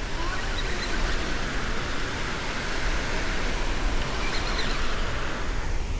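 Steady hiss of surf washing on the beach, with a low rumble of wind on the microphone underneath.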